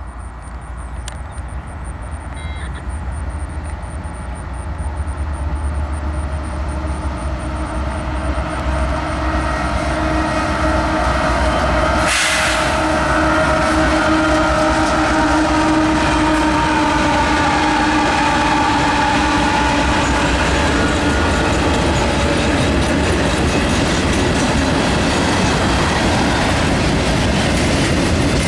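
A train approaching and passing: the rumble grows louder over the first dozen seconds, then holds as a steady roar with wheels clattering on the rails. The locomotive horn sounds for several seconds in the middle as it goes by.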